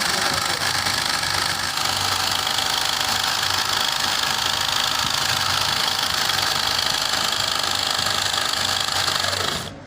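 A motor running steadily, cutting off abruptly near the end.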